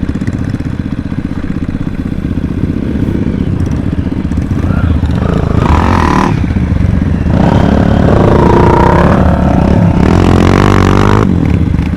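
Dirt bike engine running under way, revving up and easing off in several pushes in the second half.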